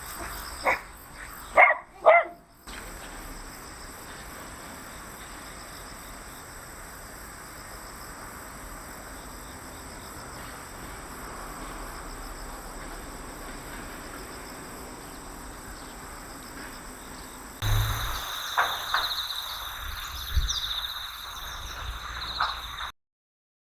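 Autumn farmland ambience: insects trill steadily under a soft hiss, with a few short, loud animal calls in the first two seconds. About 18 s in, the sound changes abruptly to a different insect trill with several more short calls. It stops dead near the end.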